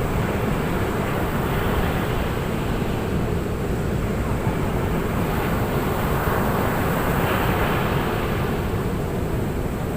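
Ocean surf breaking on a beach: a steady wash of wave noise that swells slightly a couple of times.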